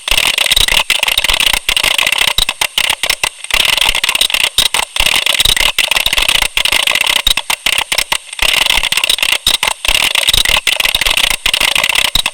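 Computer keyboard being typed on fast: a dense run of clicking keystrokes, pausing briefly twice, about three and a half and eight and a half seconds in.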